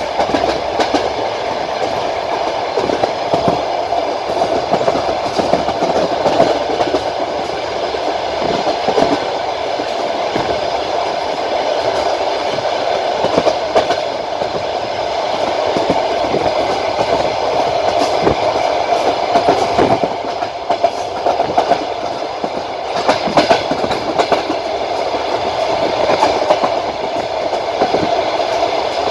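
Passenger train's wheels clicking over the rail joints under a steady running rumble, heard from aboard the moving train.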